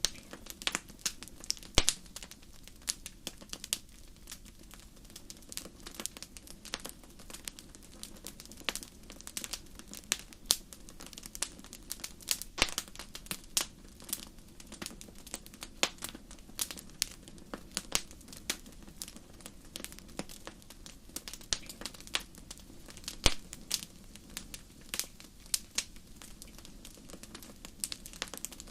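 Wood fire crackling in a fireplace: irregular sharp pops and snaps over a low steady hiss of the flames, a few louder pops standing out.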